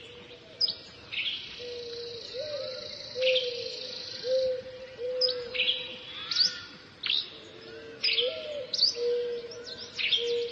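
Birds chirping: quick high chirps that fall in pitch come about once a second, over a lower, longer call that bends up and down in pitch.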